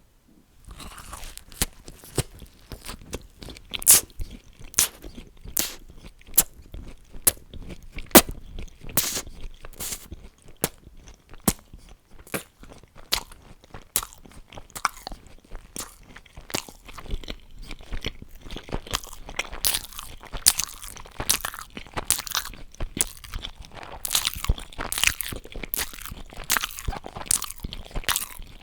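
A person eating crunchy food: a quick, irregular run of sharp crunches with chewing in between.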